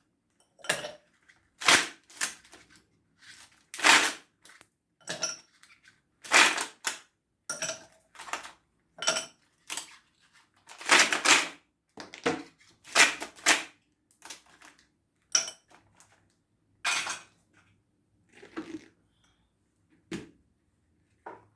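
Ice cubes clinking and knocking as they are dropped into a container: irregular sharp strikes, roughly one a second, some with a short ring.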